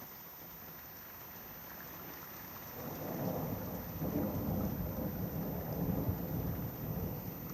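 Thunder rumbling, swelling about three seconds in and rolling on, over steady rain.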